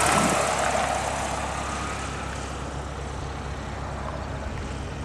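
Propeller aircraft engine drone, easing off over the first couple of seconds and then holding steady.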